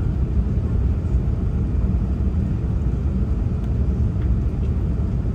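Steady low rumble of an Airbus A380 on its landing approach, even throughout with no change in pitch.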